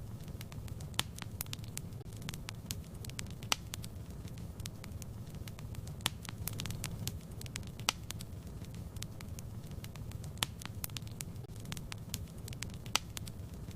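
Wood fire crackling in a fireplace: a steady low rumble of the flames with many irregular sharp pops and snaps, a few louder than the rest.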